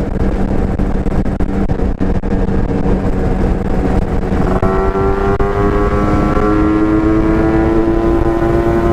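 Yamaha RX-King's single-cylinder two-stroke engine running under way, through a stock-style expansion-chamber exhaust, with wind noise on the microphone. About halfway through, the engine note starts a slow, steady rise in pitch as the bike picks up speed.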